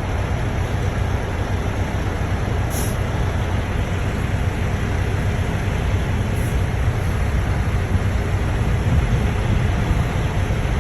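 A car being driven: steady road and engine noise, a low rumble under an even hiss.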